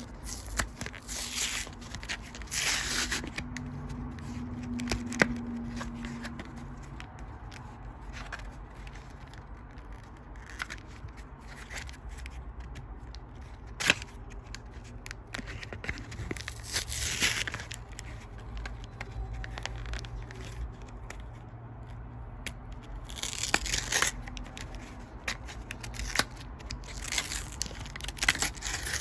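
Foil Pokémon booster pack wrappers tearing and crinkling in several short bursts, with a sharp click partway through.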